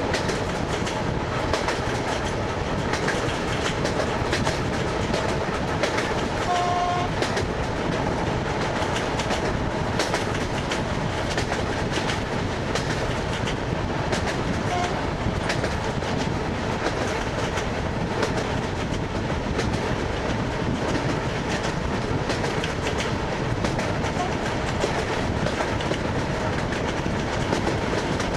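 Wheels of an ED9M electric multiple unit clattering steadily over jointed rail, heard from inside the car. A brief horn note sounds about seven seconds in.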